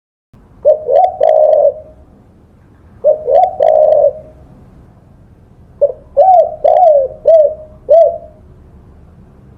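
Spotted dove (tekukur) cooing: three phrases of low arched coos, the third longer with five or six notes.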